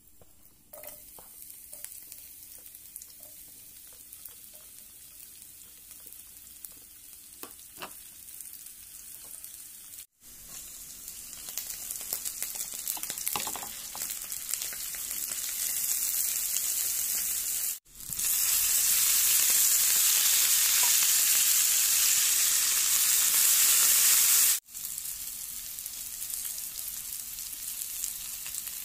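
Hot oil sizzling in a frying pan as garlic, chilli paste, onions and dried fish fry, then leafy greens. The sizzle starts faint with a few small clicks and grows louder, cutting off abruptly three times. It is loudest in a stretch after about 18 seconds.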